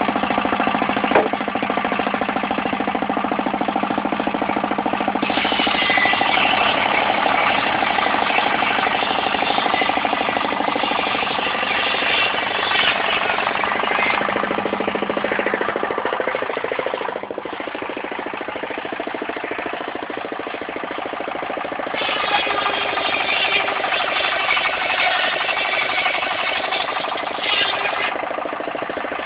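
Portable circular sawmill running, its engine steady. A harsher, higher-pitched cutting sound rises over it twice, from about five seconds in to about sixteen and again from about twenty-two to twenty-eight seconds, as the blade works through timber.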